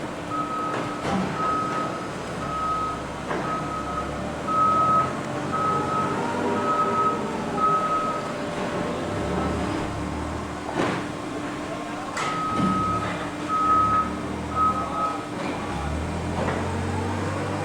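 A vehicle's reversing alarm beeps about twice a second, stops about halfway through, then beeps again for a few seconds. Under it runs the steady hum of baling machinery, with a few sharp metallic clanks.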